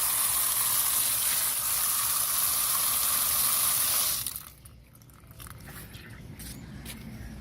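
Steady static hiss from a radio cassette player's speaker, cutting off suddenly about four seconds in, followed by a few faint clicks.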